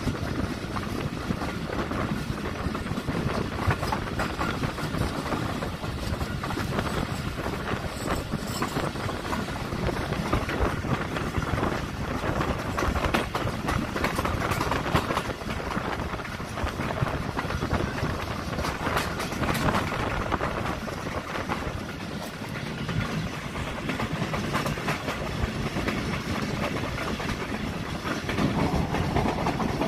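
Pakistan Railways passenger train running along the line, heard from aboard: a steady rumble of the coaches with wheels clicking and rattling over the rail joints.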